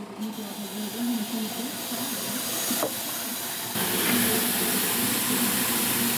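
A steady hiss that gets louder about four seconds in, over a faint wavering hum, with one short tick about three seconds in.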